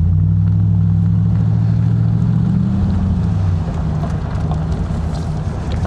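Car engine and road noise heard from inside the cabin while driving. The engine note climbs gradually as the car accelerates, then drops away about three and a half seconds in.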